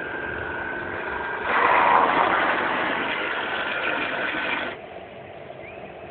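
Engine running on test with a thin steady whine. About one and a half seconds in it gets louder and rougher for about three seconds, then drops back abruptly to a quieter running sound.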